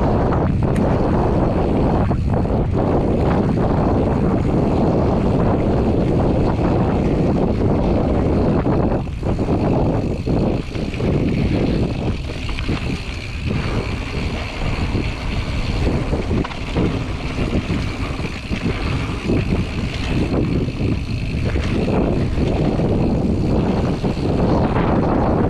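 Wind buffeting the microphone of a camera riding along on a mountain bike: a loud, steady rush that eases somewhat for a stretch in the middle.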